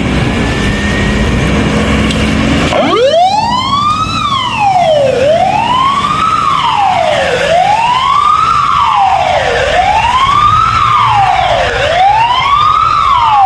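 Fire apparatus running past with loud engine and road rumble; about three seconds in its siren starts and rises quickly into a wail that sweeps slowly up and down, about five cycles roughly two seconds apart.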